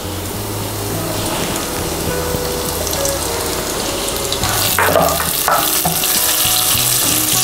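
Cashews sizzling as they fry in hot oil in a pan, the sizzle growing louder about halfway through. Background music plays underneath.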